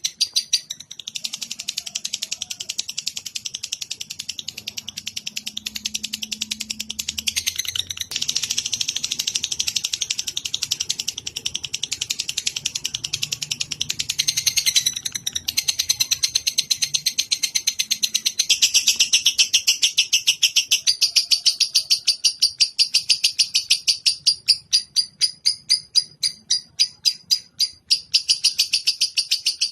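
Lovebird song: a fast, continuous high-pitched chattering trill of many chirps a second, pausing briefly about one second in and again around the middle, then growing louder and denser in the second half.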